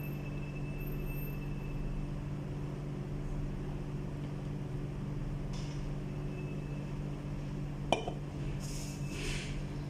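A steady low hum, with a few soft eating sounds and one sharp clink of a utensil against the dish about eight seconds in.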